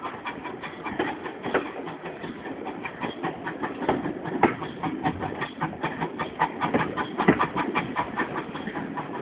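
Steam-hauled train in motion, heard from on board: a dense, irregular run of sharp clicks and knocks from the carriage wheels over rail joints and points, over steady running noise.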